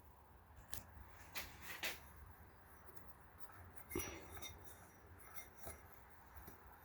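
Faint scrapes and light clicks of hands rocking the air compressor on a Mercury 250 Pro XS outboard engine, with short louder clicks about a second and a half in and again around four seconds in.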